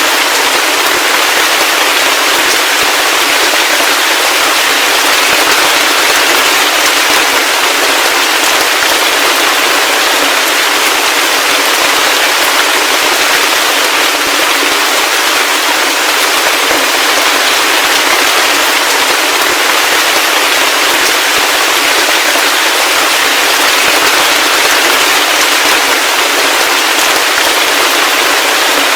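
Heavy rain falling steadily, a dense hiss of many fine drop impacts with no low rumble.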